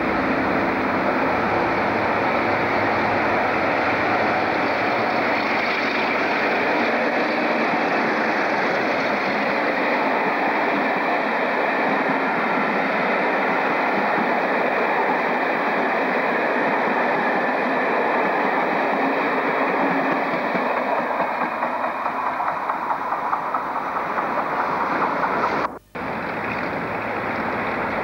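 Diesel-hauled passenger train passing close by: the locomotive's engine running and the coaches rolling past in a steady, loud rumble. A brief dropout near the end, where the recording cuts.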